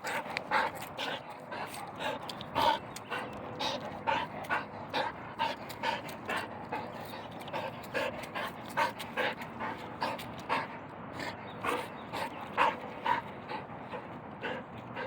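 A dog panting quickly and steadily, a few breaths a second, winded from running after a thrown frisbee.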